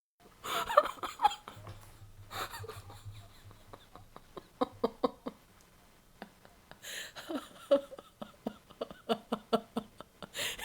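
A woman laughing: runs of quick, short "ha" pulses broken by breathy, gasping intakes of breath. The laugh starts abruptly out of dead silence.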